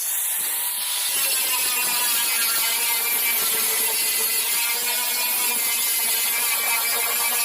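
Power tool running steadily: a motor whine over heavy hiss, with a short rising whine in the first second.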